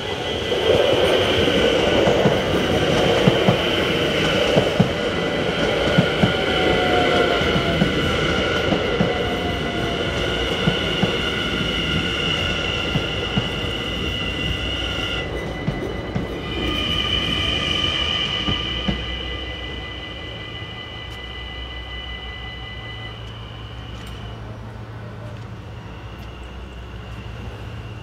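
An NS Sprinter electric passenger train runs through a Dutch level crossing, with wheels clacking over the rails. It is loud for most of the first twenty seconds, then fades. The crossing's warning bells ring steadily through the pass.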